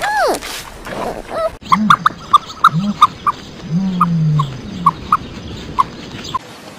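Animal calls: a high squeal falling steeply in pitch at the start, then, after a cut, a series of low grunting calls mixed with quick, sharp clicks or chirps.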